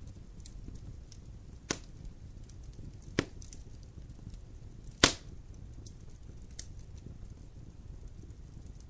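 Wood fire crackling in a fireplace: a low rumble with faint small ticks, broken by three sharp pops in the first five seconds, the last the loudest.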